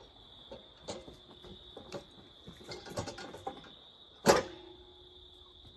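Metal clunks and creaks from a towable log splitter being shoved into place by hand, ending in one loud metallic clank with a short ring about four seconds in. Crickets trill steadily behind.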